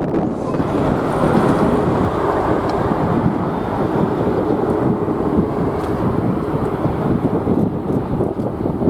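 Jet airliner taking off at full power, a steady loud rumble of engine noise, mixed with strong wind buffeting the microphone.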